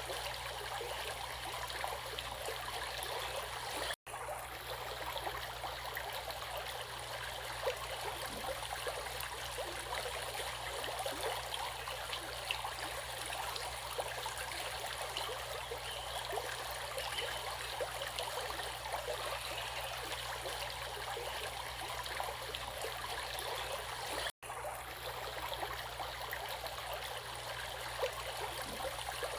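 Steadily flowing water, like a stream running over rocks, an even rushing hiss with fine trickling detail. The sound cuts out completely for an instant twice, about 4 seconds in and again near 24 seconds.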